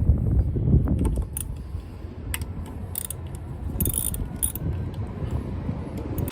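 Hand tools and metal parts being worked on a scooter's CVT case: irregular metallic clicks and rattles over low handling noise.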